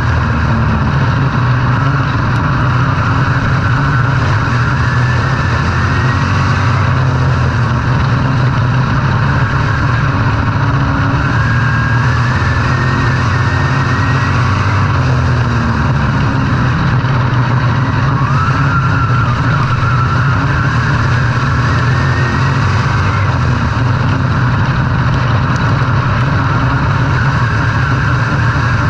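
Racing engines running loud and continuously, with engine pitch rising and falling now and then as vehicles rev and pass.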